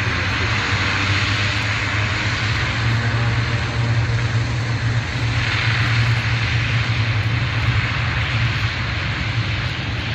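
Airliner engines running loud and continuous, a broad rush with a low hum beneath, swelling slightly through the middle as the aircraft moves past.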